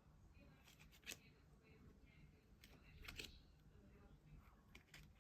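Faint handling of packaging: a few short clicks and rustles, one about a second in and a longer one around three seconds, over a low hum.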